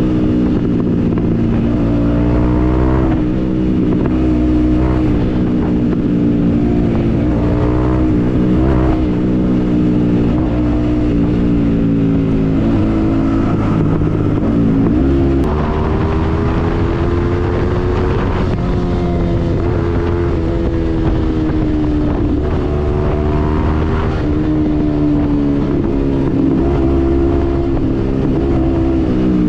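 Yamaha MT-15's single-cylinder engine through a Yoshimura aftermarket exhaust, running under way. The pitch rises and falls as the rider accelerates and eases off, with a quick drop and climb in revs about halfway through.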